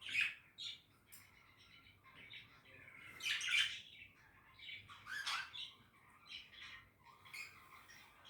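Budgerigars chattering and warbling, short chirps and squawks coming in bursts, the loudest near the start and about halfway through.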